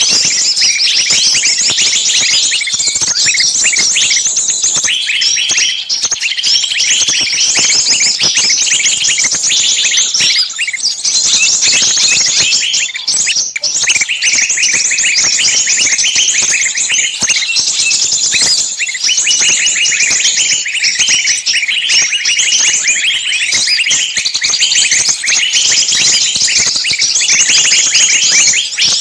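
Many birds chirping at once in a dense, continuous chorus of short high chirps.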